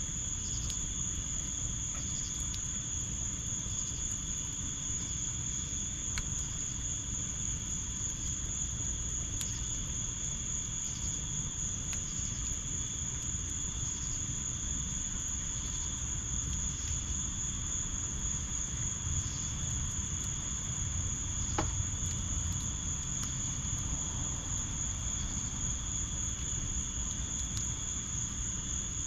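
A steady chorus of insects trilling at two high pitches, over a low steady rush, with a few sharp pops and crackles from the wood fire in the fire pit, the clearest about two-thirds of the way through.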